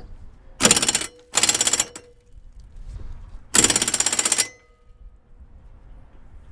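Impact wrench hammering on a seized lawn mower blade nut in three bursts: two short ones in quick succession about half a second in, then a longer one about three and a half seconds in. The nut does not break loose.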